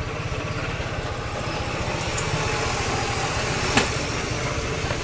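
Small single-cylinder engine idling steadily with an even low pulse, and one sharp click a little under four seconds in.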